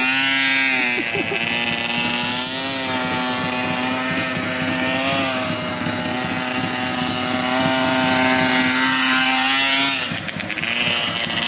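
Motorcycle engine running steadily, the revs rising and falling slightly, with a hiss of wind or road noise over it. It breaks off about ten seconds in.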